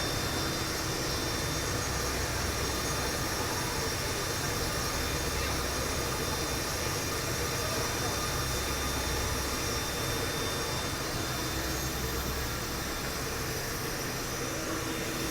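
Steady roar of running industrial machinery, an even rushing noise over a low rumble with a few constant humming tones.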